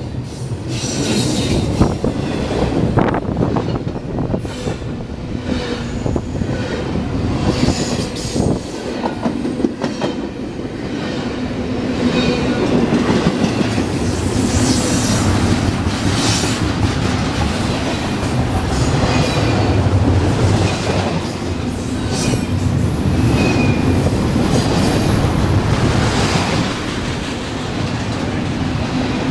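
Freight train cars rolling past on the rails, wheels clacking over joints, with thin high wheel squeals coming and going.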